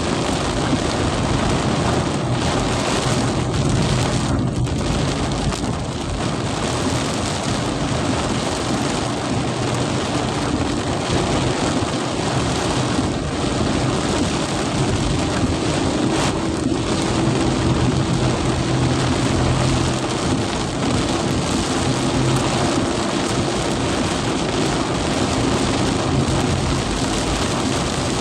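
Heavy rain pouring steadily in a storm, with a low hum underneath.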